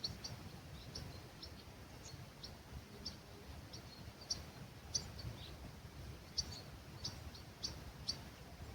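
Small birds calling at dawn in an olive grove: short, high chirps repeated irregularly a few times a second. Under them is a faint, steady low rumble of breeze.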